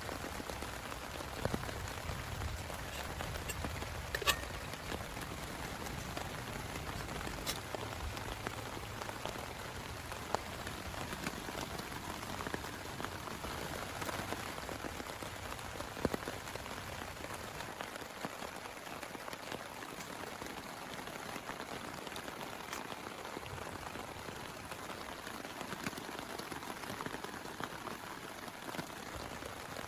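Steady rain falling, with scattered louder drops striking sharply. A low rumble under the rain in the first half dies away a little over halfway through.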